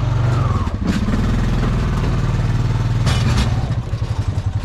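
A vehicle's engine running steadily while driving, a low pulsing rumble with a few short rushes of noise over it.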